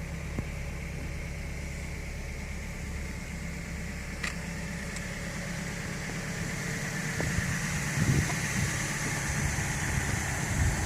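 A Toyota RAV4's four-cylinder engine idling steadily, heard from inside the cabin, with the ventilation fan blowing a steady hiss that grows a little louder in the second half. A single click comes about four seconds in.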